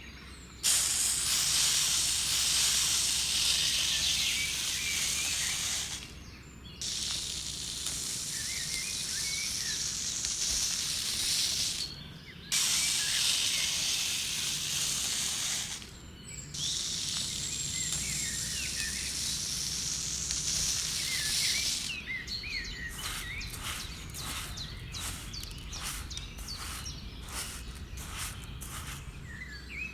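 Steady hissing noise in four stretches that start and stop abruptly, with birds chirping faintly behind it. Near the end it gives way to a quick series of short scraping or tapping strokes.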